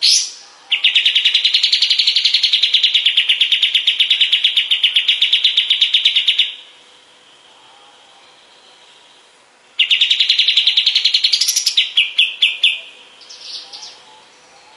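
Golden-bellied gerygone (kapas tembak) singing two long, very fast trills. The first starts just after a short note at the very beginning and lasts about six seconds. The second comes about ten seconds in and breaks into a few slower notes near its end.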